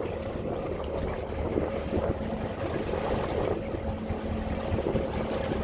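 Wind buffeting the microphone and water slapping a boat's hull on choppy water, over a steady low hum.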